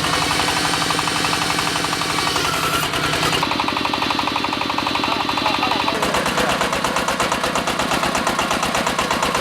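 Diesel engine of a hydraulic water well drilling rig running under load, with a rapid, even pulsing. The sound changes about three and a half seconds in, and again about six seconds in, after which the pulsing stands out more strongly.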